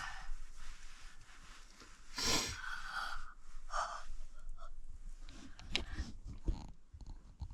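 Close breathy noises from a person, with a few short rustles and light knocks in between.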